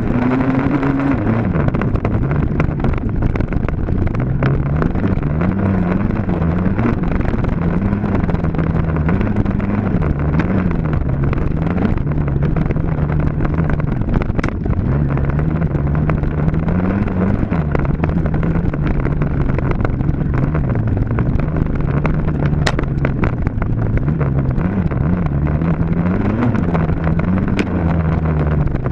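Dirt bike engine running hard during a race, its revs climbing and dropping every second or two as the throttle is worked and gears are changed, with a few sharp clicks over it.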